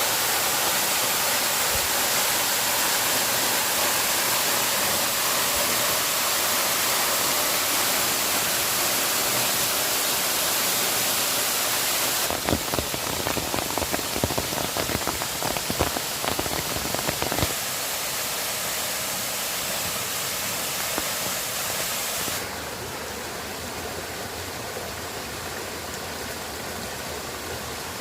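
Steady loud hiss of rushing water, the sound changing abruptly at cuts about twelve, seventeen and twenty-two seconds in. In the middle stretch, sharp irregular ticks and knocks sound over the hiss, and the last part is quieter.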